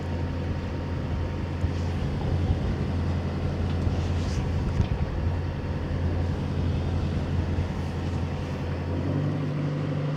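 A sailboat's auxiliary engine running steadily under way, a low hum over water and wind noise; its note shifts higher about a second before the end.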